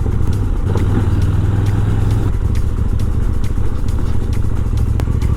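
KTM Duke motorcycle engine running steadily at low speed on a dirt trail, a constant low drone.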